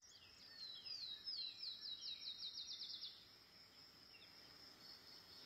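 A bird singing: a run of short, high, falling notes that come faster and faster for about two and a half seconds, then stop, leaving a faint steady high tone.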